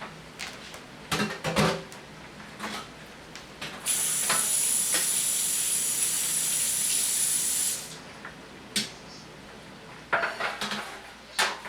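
Kitchen sounds: a few clatters of utensils and pans, then a steady high hiss lasting about four seconds that starts and stops abruptly, and more clatters near the end.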